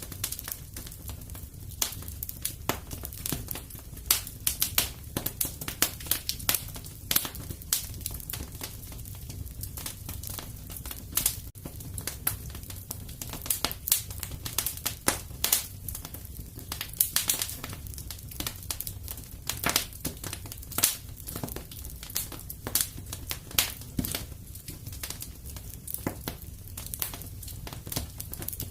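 Wood fire crackling in a fireplace: a steady low rumble of burning with irregular sharp pops and snaps, several a second.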